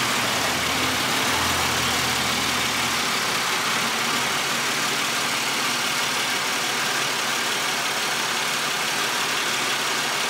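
A 2000 Buick Century's 3.1-litre 3100 SFI V6 idling steadily with the hood open.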